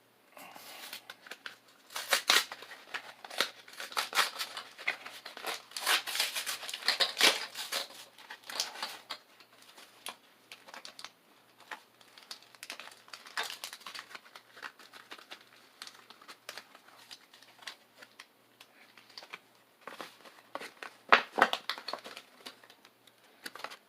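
Pokémon card packaging being torn open and handled: irregular crinkling and tearing of plastic and foil wrappers, busiest in the first several seconds, with a sharper, louder crackle about 21 seconds in.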